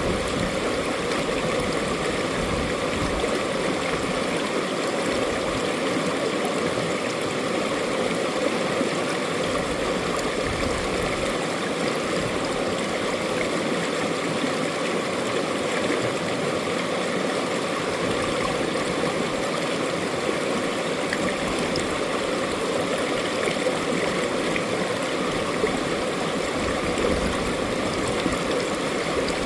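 Mountain-valley stream flowing steadily over rocks, a continuous even rush of running water.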